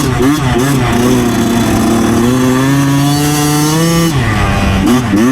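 2009 Yamaha YZ125's single-cylinder two-stroke engine under load: quick dips and blips of the revs in the first second, then held high and slowly climbing for about three seconds, dropping sharply about four seconds in before picking up again.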